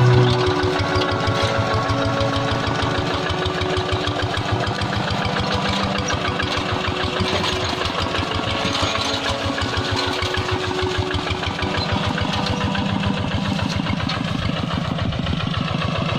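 Kubota single-cylinder diesel engine of a Quick G1000 two-wheel hand tractor running steadily, with a quick, even firing beat.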